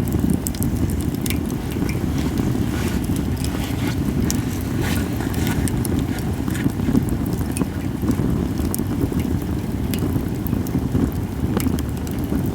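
Japanese cedar (sugi) firewood burning in a campfire, with sharp crackles and pops scattered irregularly over a steady low rumble.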